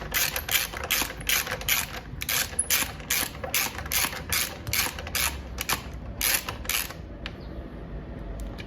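Ratcheting wrench with a socket clicking in quick repeated bursts, about three a second, as a bolt is run down and tightened; the clicking stops about seven seconds in.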